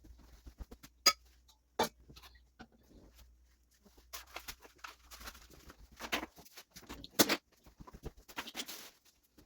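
Kitchen items being handled and put away: scattered clicks and clatter, with sharp knocks about a second in, about two seconds in and about seven seconds in, and scuffing and rustling through the second half.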